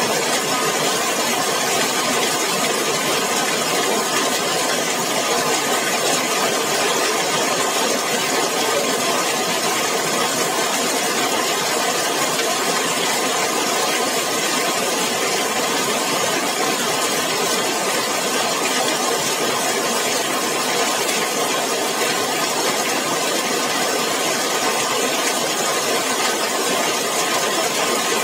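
Heavy, steady rain falling on a zinc (corrugated metal) roof and on wet paving, a continuous even hiss with no breaks.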